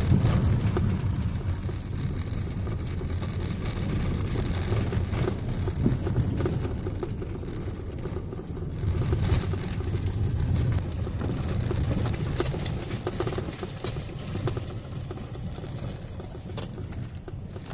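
A vehicle running, a steady low rumble of engine and road noise that swells and eases over several seconds.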